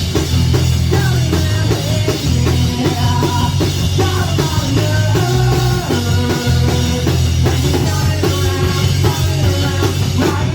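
A live rock band playing loud and steady, with a drum kit and a strong bass underneath a bending melody line.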